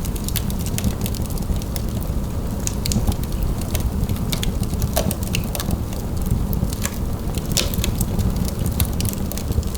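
Wood fire in a fireplace, crackling with many sharp, irregular pops over the steady low rumble of the flames.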